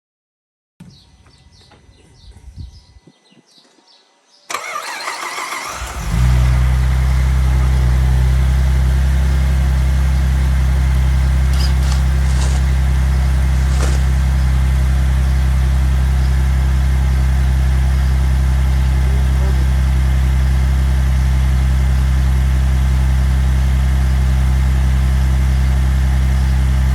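Saab 9-3's 2.8-litre turbocharged V6 being cranked over and catching about six seconds in, then settling into a steady idle. It is the replacement engine just swapped in after the original blew a head gasket.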